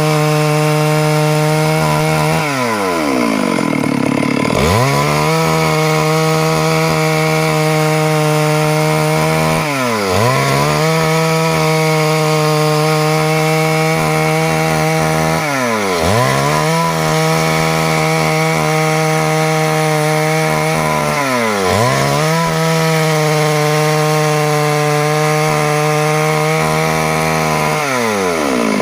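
Stihl MS 382 two-stroke chainsaw running at high revs while cutting wood. About every six seconds the engine note drops and then climbs straight back up.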